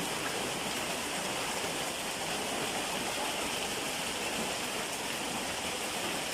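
Heavy rain pouring down in a storm, a steady even hiss.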